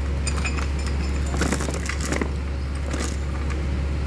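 Light metal clinking and rattling of parts and tools being handled, over a steady low hum, with a short busier stretch of scraping about a second and a half in.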